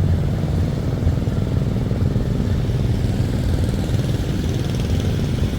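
Steady low rumble of vehicle engines idling.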